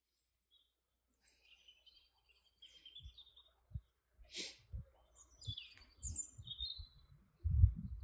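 Small birds chirping and twittering, starting about a second in, with a run of low thuds from about three seconds in, the loudest near the end.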